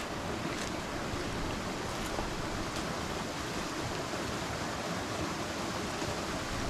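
Strong wind blowing steadily, buffeting the microphone with a low uneven rumble.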